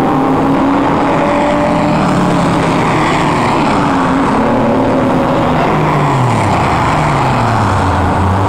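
Several car engines running as cars drive past and away along the track, their notes overlapping and shifting in pitch. Near the end one engine note drops steadily over about two seconds.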